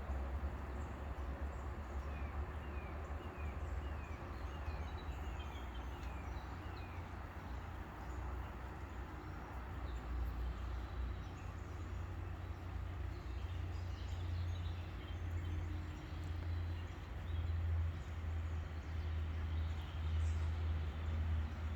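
Steady low rumble of outdoor background noise, with a bird giving a quick run of about ten short falling chirps a few seconds in. The rumble swells a little toward the end.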